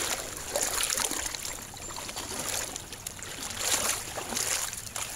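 Creek water running steadily, with a few brief louder surges of splashing noise.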